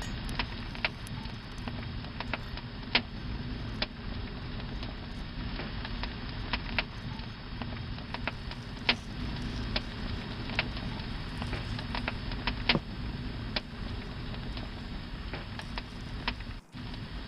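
Campfire crackling: irregular sharp pops and snaps of burning wood over a steady low rumble and hiss.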